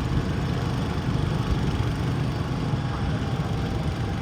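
Garden tractor engine running steadily with a rough low rumble, no clear revving.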